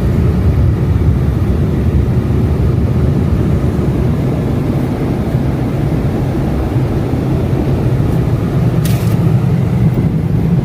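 Automatic car wash drying blowers pushing air over the car, heard from inside the cabin as a loud, steady low rush, with a short hiss about nine seconds in.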